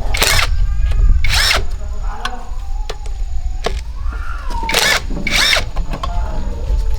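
Power tool run in four short bursts, each under half a second, over a steady low rumble.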